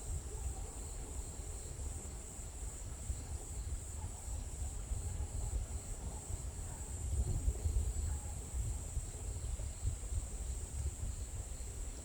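Insects trilling steadily in one high, unbroken band, over a low wind rumble.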